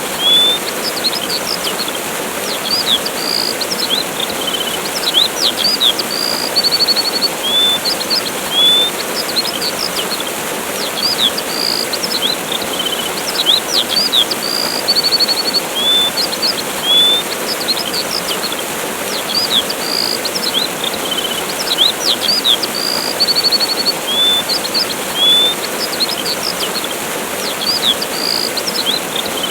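Steady rush of a waterfall with small birds chirping over it: short upward whistles, quick trills and sharp chips, the same run of calls recurring regularly.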